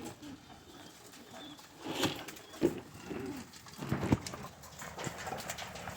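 Pigeons cooing softly, with a few scattered light knocks and scuffs.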